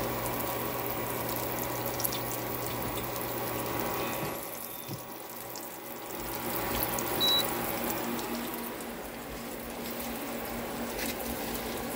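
Breaded striped bass fillets frying in hot oil in a pan, a steady sizzling hiss. A low hum runs under the first few seconds, and a brief high beep sounds about seven seconds in.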